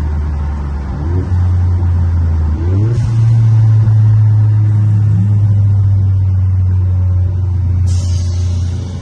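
Toyota GR Corolla's turbocharged three-cylinder engine heard from inside the cabin under acceleration: a deep, loud drone that steps up in pitch twice in the first three seconds, then holds steady.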